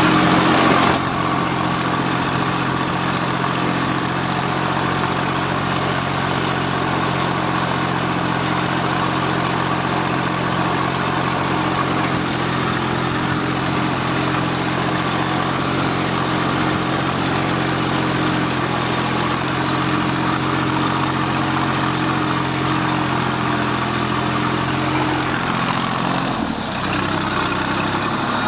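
Tractor engine running steadily, pulling a two-plough rig through the soil. Near the end the engine note dips and settles at a lower pitch.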